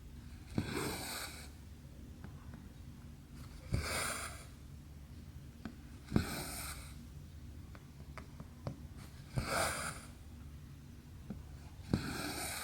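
Needle and thread drawn through 11-count cross-stitch fabric: each stitch is a sharp click of the needle followed by a short rasping swish of floss. This happens five times, about every two and a half to three seconds, with faint ticks in between.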